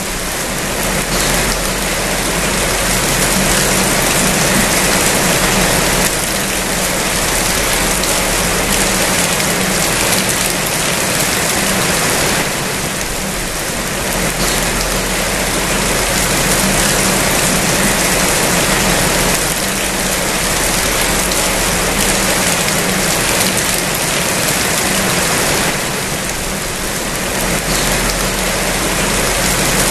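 Steady heavy rain falling, a dense even hiss that swells and eases slightly a few times, over a faint steady low hum.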